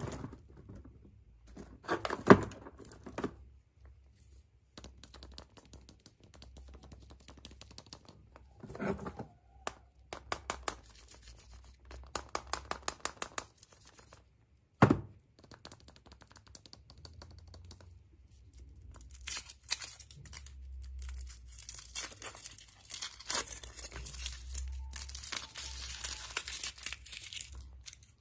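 Packaging being torn open and crinkled by hand, with sharp knocks and runs of clicks, and a long stretch of rustling tearing in the second half.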